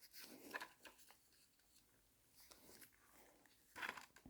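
Near silence: faint rustling with a few light clicks, a little louder near the end, as wiring is handled.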